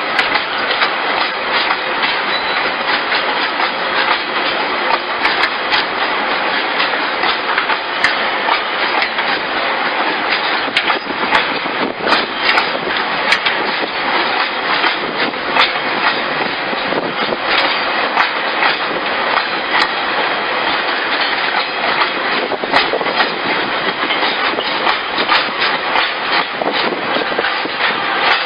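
Train running on rails: a steady rumbling clatter of wheels over the track, with many short clicks and knocks throughout.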